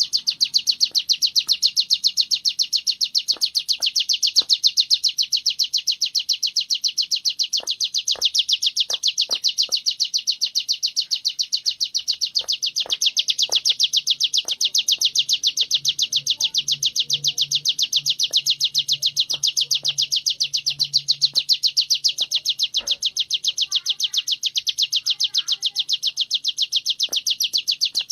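Ciblek gunung prinia singing its continuous rapid trill (ngebren): an unbroken run of high chirps, several a second, without a pause. Faint scattered clicks and a low hum sit beneath it.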